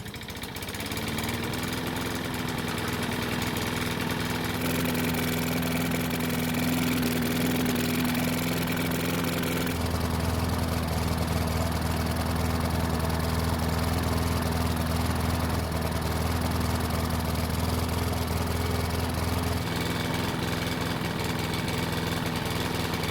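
Toro Personal Pace mower's small petrol engine catching, its pitch rising in the first second, then running steadily with the choke flap held open. It runs kind of poorly, which points to a carburettor problem. A deeper hum joins it for about ten seconds in the middle.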